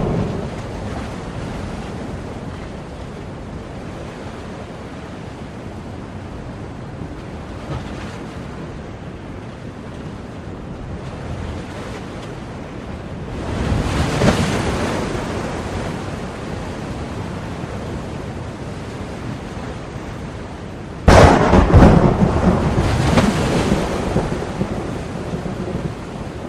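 Thunderstorm ambience with a steady rushing hiss underneath. Thunder rumbles and swells about halfway through. Near the end a sudden loud thunderclap cracks and rolls on for several seconds.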